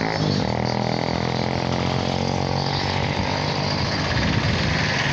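A motor vehicle engine running close by, a steady low rumble.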